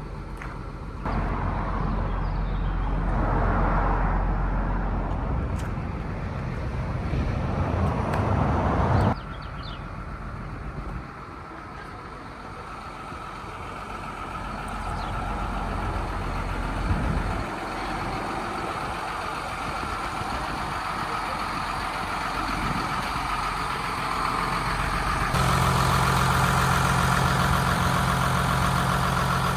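Hino 268 box truck's diesel engine running, swelling and easing in loudness several times, with a steadier, stronger hum over the last few seconds.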